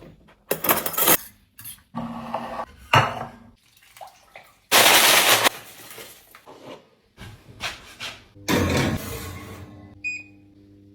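Dishes and cutlery being handled and set down: a series of clinks and clatters, with a short louder rushing noise about five seconds in and a brief ringing clink near the end.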